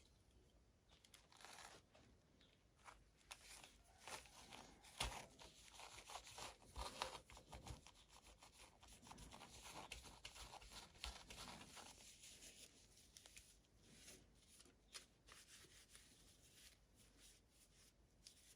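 Faint rustling, tearing and crinkling of toy packaging being handled and opened, with scattered small clicks and two sharper ticks about five and seven seconds in.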